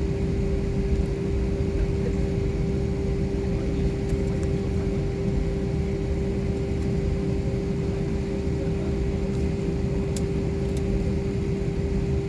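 Steady drone of an airliner cabin: a low engine and air rumble with one constant tone running through it.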